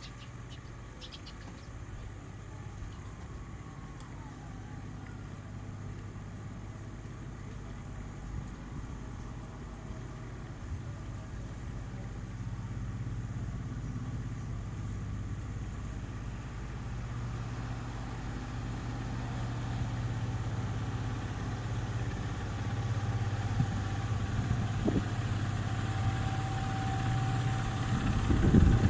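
An engine running steadily with a low hum, growing gradually louder, with a couple of low thumps near the end.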